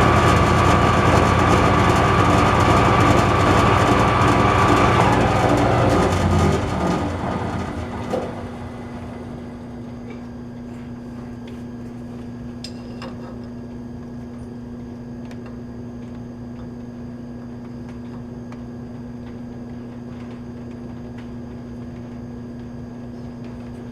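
Metal lathe running, then switched off and winding down to a stop about six to eight seconds in. A steady low hum continues after it stops.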